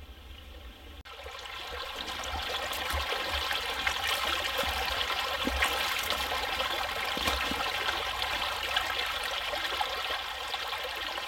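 Small forest creek running over stones, a steady rush of water that comes in about a second in and swells over the next two seconds, with small splashes and ticks through it.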